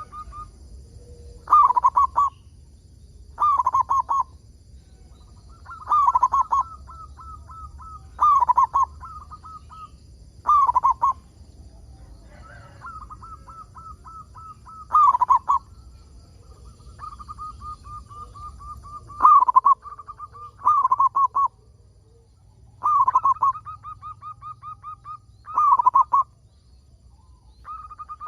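Zebra dove (perkutut) singing: loud, rolling, bubbling coo phrases repeat every two to three seconds, with softer, rapid strings of short notes between them.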